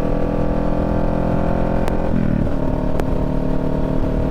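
Motorcycle engine running at a steady speed while riding, its pitch briefly dropping and climbing again about two seconds in, as at a gear change. Two sharp clicks about two and three seconds in.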